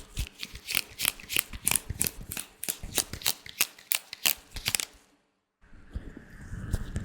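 Latex gloves being worked by hand: quick crisp snaps and crackles, about four or five a second. After a sudden half-second gap they give way to a softer, denser rubbing rustle.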